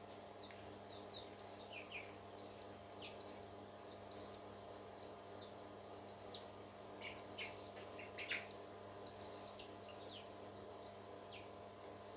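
Parrot chicks cheeping: many short, high, falling chirps coming in quick runs, busiest a little after halfway. A steady low hum of several tones runs underneath.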